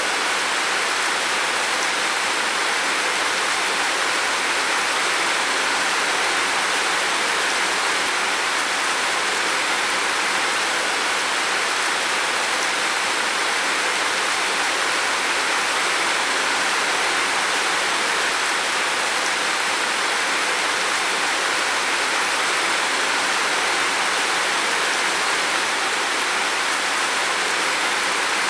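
Heavy rain falling on a roof, a steady dense hiss without distinct separate drops.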